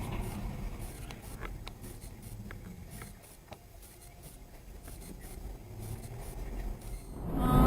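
Low rumble inside a car on a dash-cam recording, with scattered light clicks and scratchy rubbing noises. It fades in the middle and swells again near the end, cut off by a much louder sound just before the end.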